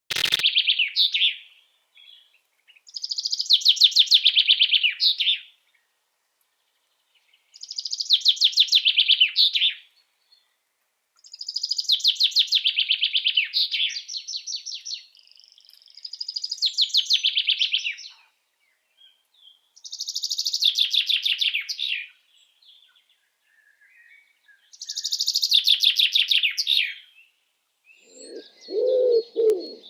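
A songbird singing the same rapid trilled phrase over and over, each phrase about two seconds long with pauses of a second or two between. Near the end a dove starts cooing low underneath.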